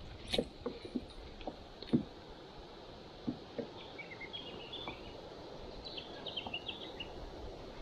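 Birds chirping in quick runs of short high notes, twice in the second half, over a steady outdoor hiss. Earlier come scattered soft knocks and splashes from a kayak and its gear on the water.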